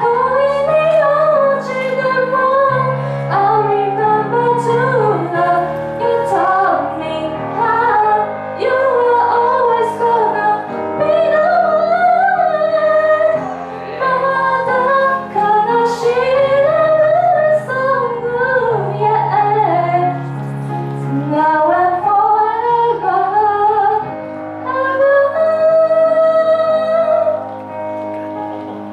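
A woman singing a slow ballad with held, gliding notes over instrumental accompaniment.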